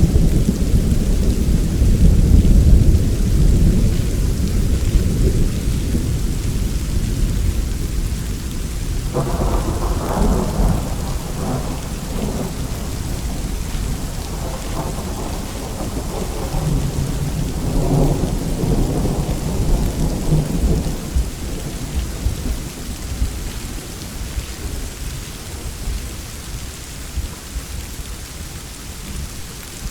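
Steady heavy rain with thunder: a deep rumble at the start that fades, then a second roll with crackling peals from about nine seconds in, dying away after about twenty seconds while the rain keeps falling.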